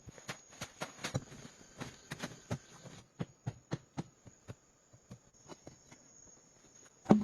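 A run of irregular sharp clicks and knocks, two or three a second, with one louder thump near the end, over a faint steady high-pitched whine.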